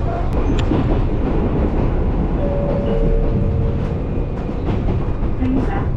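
Gakunan Railway electric train running along the line, heard from inside the carriage: a steady rumble with occasional clacks of the wheels over rail joints. A steady whine sounds for about a second and a half near the middle.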